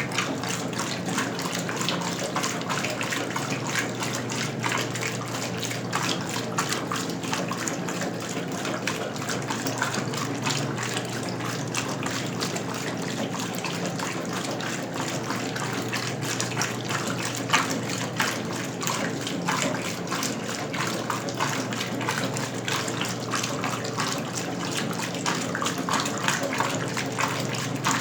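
Westinghouse Lavínia washing machine from 1977 at work, with water running and splashing steadily in its tub over a low, even hum.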